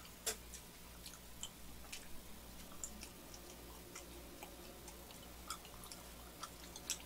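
Faint close-up chewing of soft, sticky glutinous rice cakes (manggae-tteok filled with red bean paste), with scattered small mouth clicks and smacks over a low steady hum.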